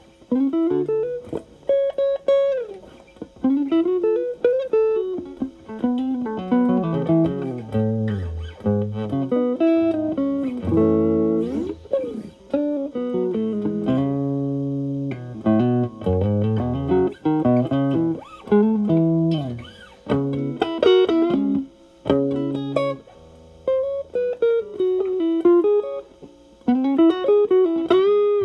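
Electric guitar, a Fender Stratocaster, played through an Xotic AC Plus two-channel overdrive pedal into a Marshall Valvestate amp. It plays improvised blues-style lead lines with string bends and slides, and holds a few notes and chords about halfway through.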